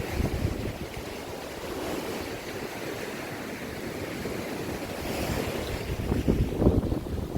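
Sea waves washing in with wind gusting across the microphone, the buffeting strongest right at the start and again about six seconds in.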